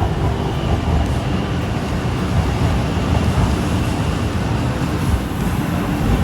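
Shinkansen train running along the station platform: a steady rumble and rush of train noise with no breaks.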